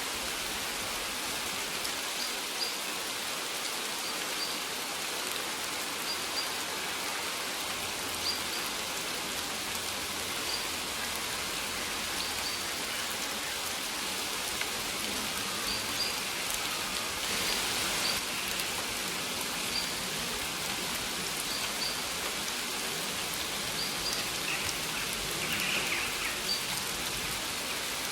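Steady rain falling, an even hiss, with short faint bird chirps repeating every second or two above it.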